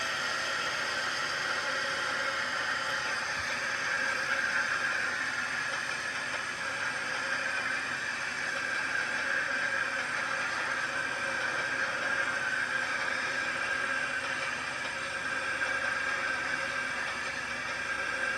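Steady hiss and rumble of a train in motion.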